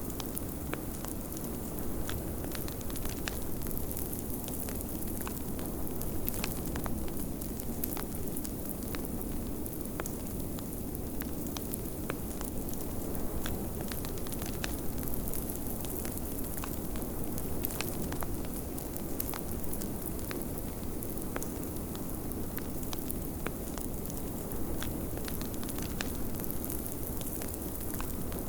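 Wood fire crackling in a fireplace, with frequent sharp pops and snaps, over a steady low rush of snowstorm wind.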